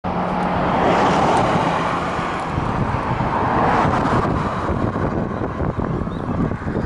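Wind rushing over a helmet-mounted microphone while cycling along a road, with motor traffic going past; the noise starts suddenly and swells twice, about a second in and again near the middle.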